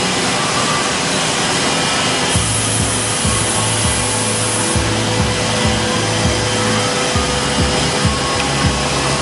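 CNC wood router cutting wood: a steady spindle whine over a constant rushing cutting noise.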